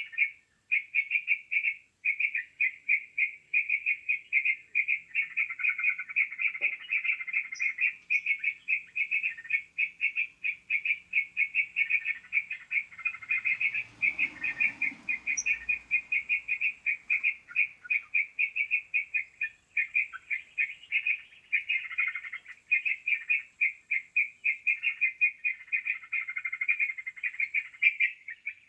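Bird-lure call for trucukan (yellow-vented bulbul): a fast, unbroken string of sharp chirps that keeps going without a pause. A brief low rumble comes in about halfway through.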